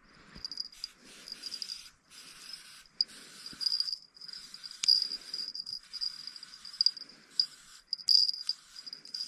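Crickets chirping at night, a steady high pulsing trill, with a few sharp clicks, the strongest about five seconds in.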